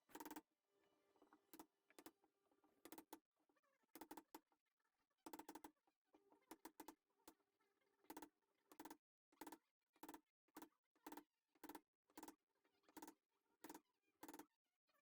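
A series of faint, sharp taps on a chisel, cutting the hinge recess into the wooden door. They come irregularly at first, then settle into a steady tapping about once every half second or so.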